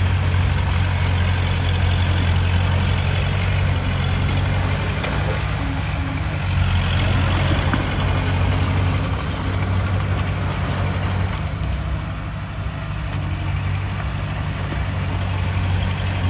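Heavy diesel earthmoving machinery running steadily under load, a deep continuous engine drone with a noisy mechanical wash above it. The drone eases slightly about three-quarters of the way through.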